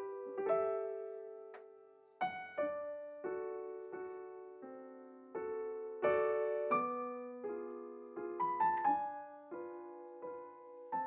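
Solo piano music: unhurried chords, each struck and left to ring and fade.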